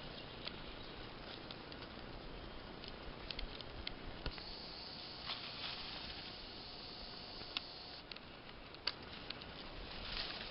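Spring forest ambience: a steady background hush with scattered light ticks and rustles, some patter-like.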